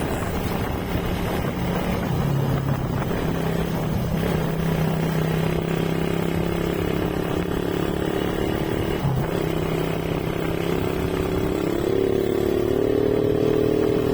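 Motorcycle engine running under way, over a steady rush of road noise. It gives a brief dip in pitch about nine seconds in, then its pitch climbs from about twelve seconds as it accelerates.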